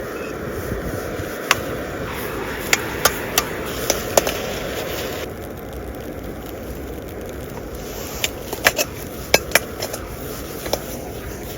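Metal cooking utensil clanking against a wok, sharp knocks in two clusters, over a steady frying sizzle that quietens about five seconds in.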